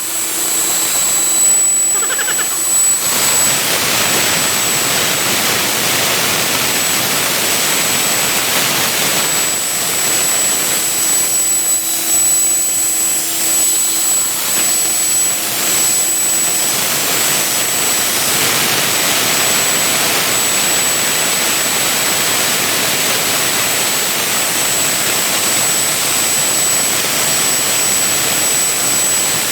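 A CNC vertical milling machine running: a steady, loud rushing noise with a thin high-pitched whine and fainter hums that come and go.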